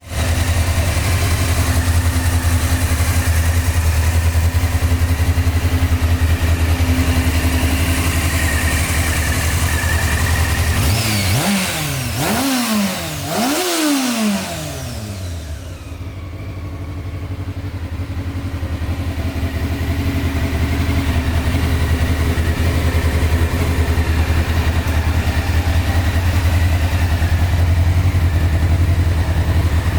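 Honda CBR600F's inline-four engine idling steadily, revved in three quick blips about halfway through, each rising and falling in pitch, then settling back to idle.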